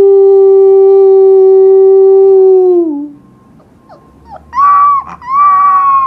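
A long, low, steady howl is held for about three seconds and sags in pitch as it ends. After a short pause a husky puppy howls twice in a much higher pitch, the second howl trailing downward.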